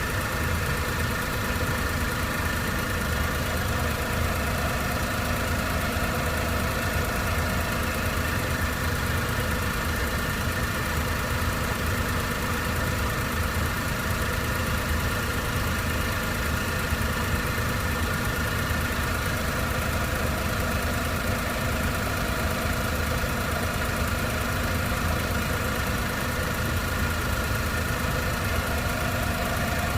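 Honda Vamos engine idling steadily, with a steady higher-pitched hum over it that does not change.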